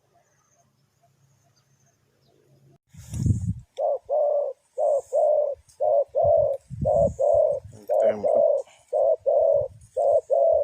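Spotted dove cooing: a run of short, low coo notes, mostly in close pairs, starting about four seconds in, after a brief low rustle and thump.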